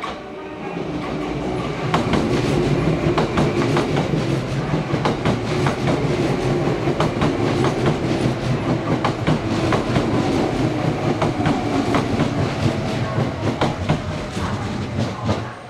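Kintetsu electric train running alongside the station platform, its wheels clacking over rail joints with a steady rumble. The sound builds over the first two seconds and fades near the end.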